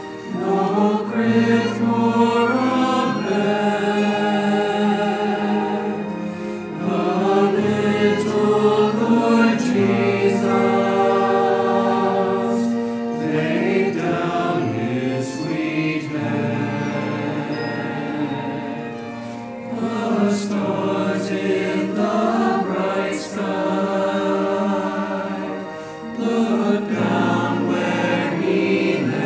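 Choir singing with orchestra in long sustained phrases, with short breaks between phrases.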